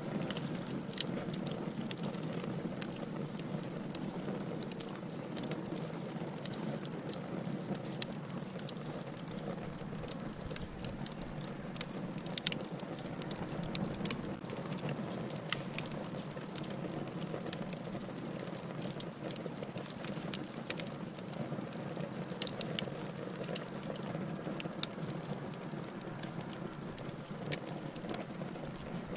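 Wood fire burning in a fireplace: a steady low rush of flames with frequent irregular crackles and sharp pops of the burning logs.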